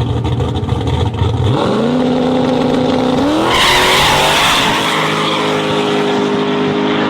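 Drag race launch: a race car's engine rumbles low at the line, then rises steadily in pitch as the car accelerates down the strip, stepping up about three seconds in. A loud rush of hiss comes just after the step.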